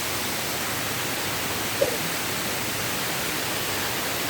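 Waterfall: a steady, even rush of falling water, with one brief short sound about two seconds in.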